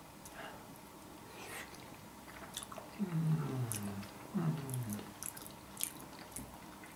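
A man chewing a mouthful of roast pork knuckle skin with soft wet mouth clicks. He gives two closed-mouth "mmm" hums of relish, about three seconds in and again a second later, each falling in pitch.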